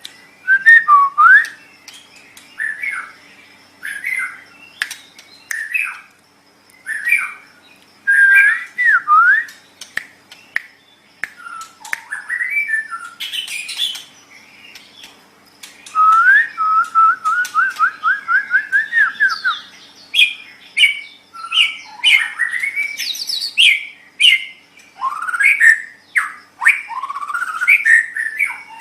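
White-rumped shama (murai batu) singing: short, varied whistled phrases with gaps between them, a fast run of rising repeated notes lasting about three seconds past the middle, and quicker, denser phrases near the end.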